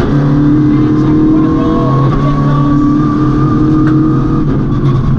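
MINI rally car's engine heard from inside the cabin, running hard on a tarmac stage. The engine note holds steady and dips briefly right at the start and again about four and a half seconds in.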